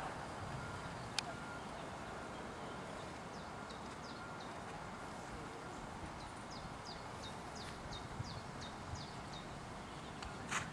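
Open-air ambience with a steady low rumble, over which a small bird gives runs of quick, falling chirps, about four a second, through the middle. A sharp click comes about a second in and a short hissing burst near the end.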